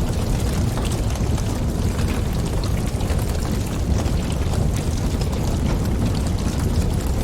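Wood fire burning with a steady low roar of flames and frequent small crackles and pops throughout.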